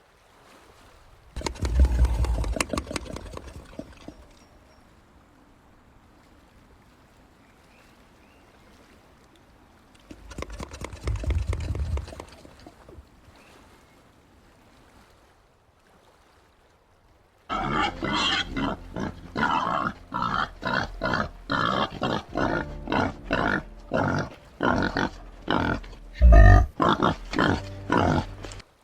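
White-lipped peccary calls: two short rasping bursts near the start and about ten seconds in, then a long run of rapid, pulsed grunts from about seventeen seconds in that cuts off abruptly near the end.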